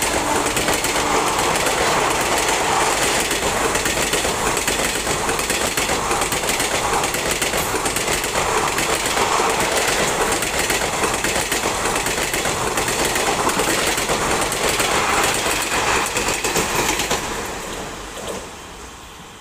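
ICF passenger coaches rushing past at speed: a steady, loud rumble and hiss of steel wheels on the rails, with a repeating clickety-clack from the wheels. The sound falls away sharply about 17 seconds in.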